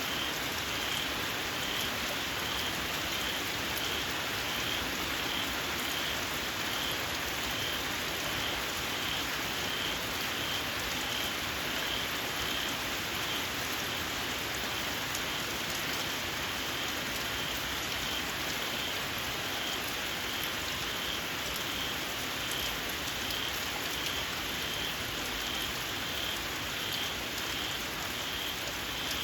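Steady rain falling, with a small frog giving a shrill, high call over and over at an even pace, about twice a second.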